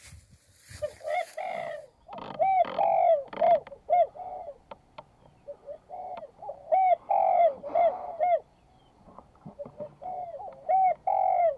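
A dove cooing in repeated phrases of short arched notes, three bouts of calling with pauses between them.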